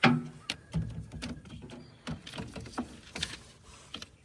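Hands working a spark plug wire boot onto its plug in an engine bay: a series of irregular clicks and knocks with rubbing between them, the loudest right at the start.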